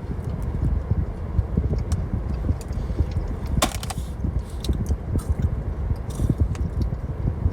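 A wafer chocolate bar (matcha Kit Kat) being chewed: small irregular crunching clicks with one sharper click about three and a half seconds in, over a steady low rumble.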